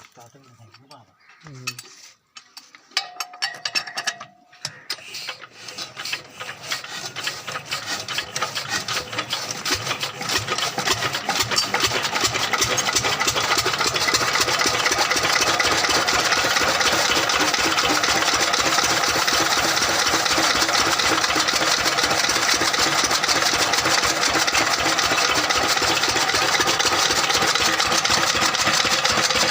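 A 10 horsepower engine starting up: after a few quiet seconds its rapid beat picks up, growing faster and louder for about ten seconds, then running steadily.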